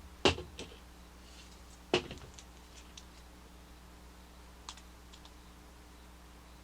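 Small hard plastic toy parts clicking and knocking as they are handled: two sharp clicks, about a quarter second in and at two seconds, each followed by lighter ticks, and one faint tick later.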